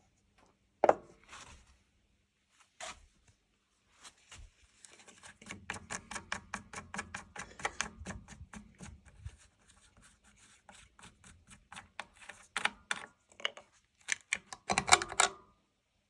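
Hand-tool work on a ride-on mower: scattered knocks, then runs of rapid metallic clicking and scraping. There is a long run in the middle and shorter bursts near the end.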